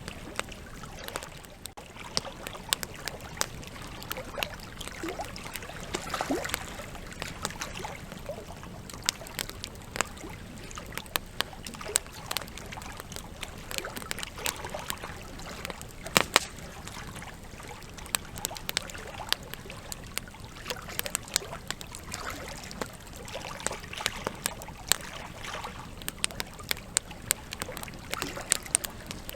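Wood campfire burning, with frequent sharp crackles and pops from the logs over a steady soft rush of flame; one pop about halfway through stands out as the loudest.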